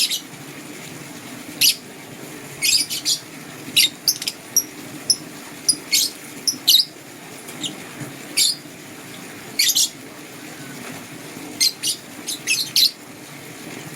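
Lovebirds chirping: short, sharp, high calls at irregular intervals, some in quick pairs or clusters, over a faint steady low hum.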